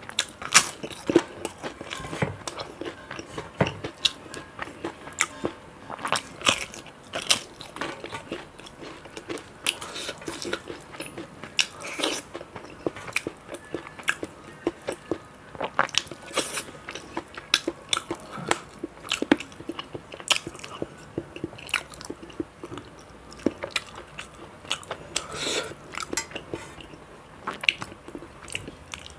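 Close-miked eating: repeated crunching bites and chewing of crisp food, with many sharp crackles throughout.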